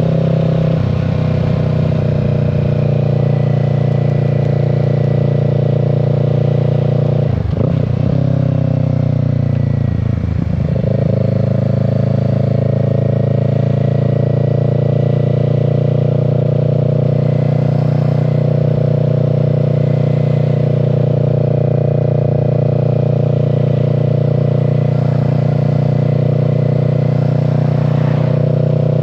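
Kawasaki Z650's parallel-twin engine running steadily at a cruise, heard from the rider's seat. The engine note breaks and dips twice about a quarter and a third of the way through, then holds steady again.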